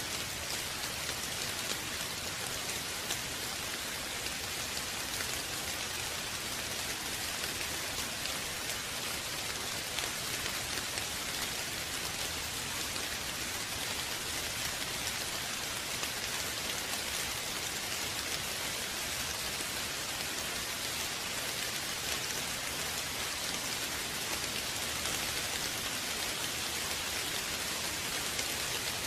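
Steady rain falling, an even hiss of many drops with individual drops ticking through it.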